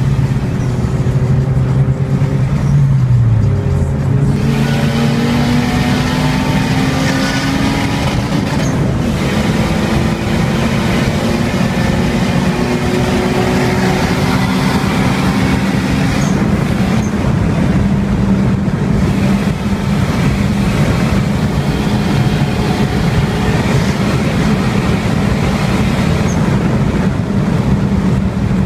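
Turbocharged Honda Integra DC2 with a screamer pipe, heard from inside the cabin while boosting. The engine note drops with an upshift about three seconds in, climbs steadily for about twelve seconds, then holds at a steady pitch.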